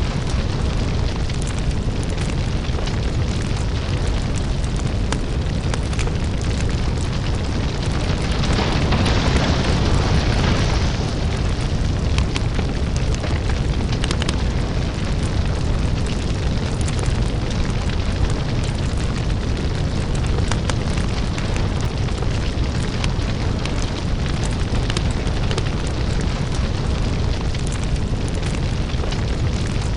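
Crackling lava-fire ambience: a steady deep rumble scattered with small crackles and pops. A louder hiss swells for about two seconds, around nine seconds in.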